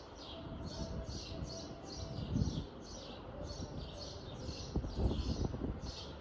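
A small songbird chirping over and over, about three short falling chirps a second, with a low irregular rumble underneath that swells a couple of times.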